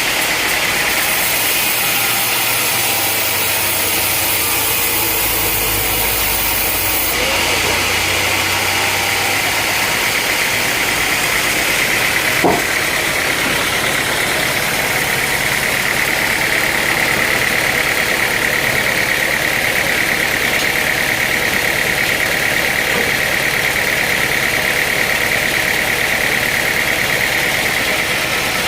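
Engine-driven sawmill machinery running steadily, with a high whine that grows stronger partway through and one sharp knock about twelve seconds in.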